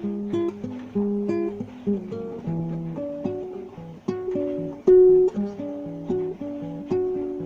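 Guitar music: separately plucked notes and chords at an unhurried pace, each fading after it is struck, with one louder pluck about five seconds in.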